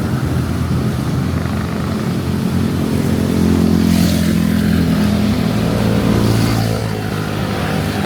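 A motor vehicle engine passing close on a wet street, growing loudest a few seconds in and easing off near the end, over a steady hiss of rain.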